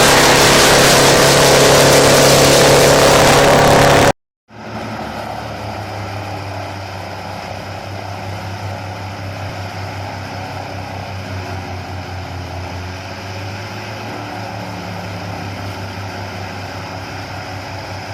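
Wood chipper running loud and chipping, a dense noise over its engine's hum, cut off suddenly about four seconds in. After a moment's silence, a quieter engine runs steadily.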